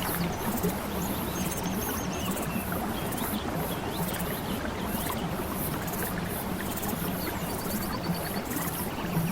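Steady running water, with short rapid high-pitched trills now and then over it.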